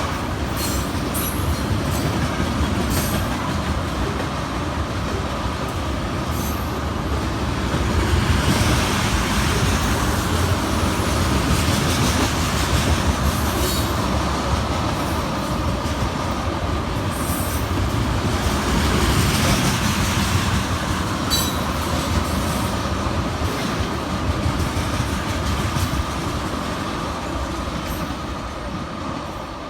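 Freight train rolling past: a steady rumble of cars and wheels, with scattered clacks over rail joints and a steady high wheel squeal. It eases off slightly near the end.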